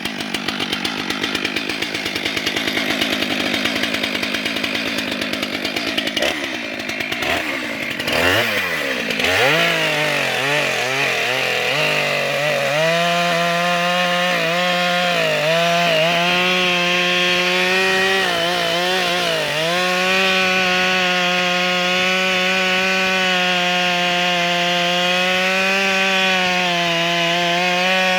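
Stihl MS462 two-stroke chainsaw (72.2 cc) running hard while cutting through a log with a long bar. Its pitch swings up and down a few seconds in, then holds mostly steady, dipping briefly a few times as the engine takes load in the cut.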